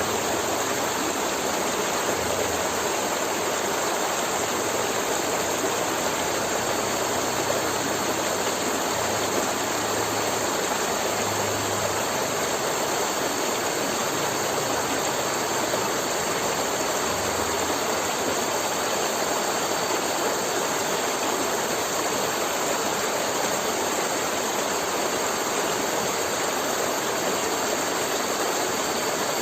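River water flowing and splashing in a steady rushing stream.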